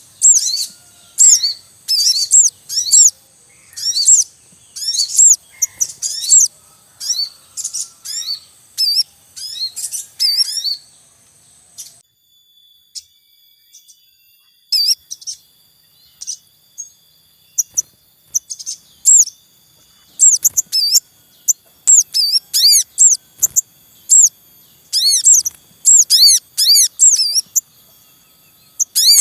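Sogon (crimson sunbirds) calling with fast, high-pitched 'cuit cuit' chirps in quick clusters. The chirping stops for a few seconds about eleven seconds in, then starts again.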